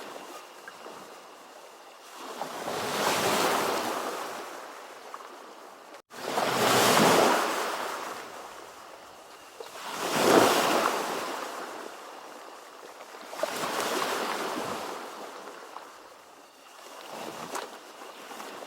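Ocean surf, with waves breaking and washing in one after another, about one every three to four seconds. Each wave is a swelling hiss that builds and then fades. There is a momentary break in the sound about six seconds in.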